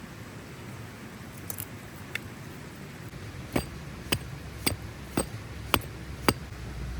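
A series of six sharp knocks, evenly spaced about two a second, beginning about halfway in over a steady low background rumble.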